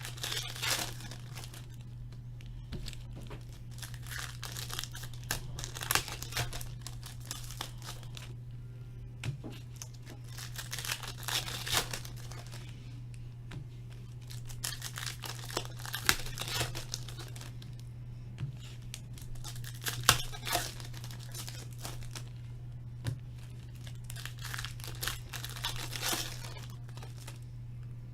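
Hockey card packs being torn open and their wrappers crinkled, in irregular bursts with small clicks, over a steady low hum.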